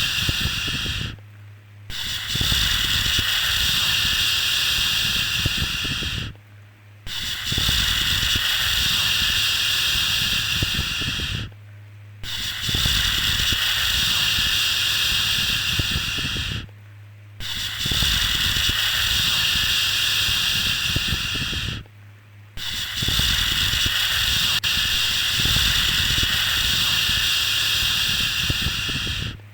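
A soothing 'shhh' shushing sound for calming a baby. It comes in long, even shushes of about four to five seconds each, with a short pause between them, over a faint low hum.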